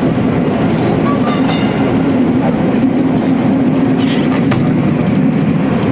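Vintage Melbourne W2-class streetcar running along its track, heard from on board: a steady low rumble of motors and wheels on rail.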